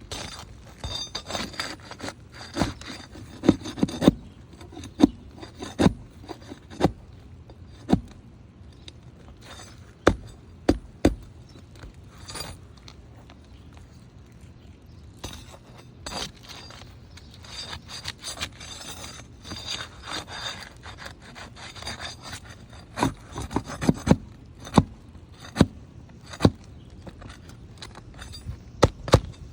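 Flat bar and spatula scraping and prying under three-tab asphalt shingles to break their seal strips, with repeated rasping strokes and many sharp knocks and clicks of metal on the shingles.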